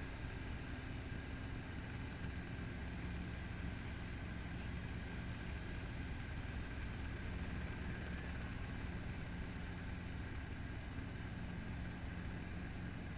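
Training helicopter's engine and rotor running steadily, heard from inside the cabin: an even drone with a low steady hum and a fainter high whine.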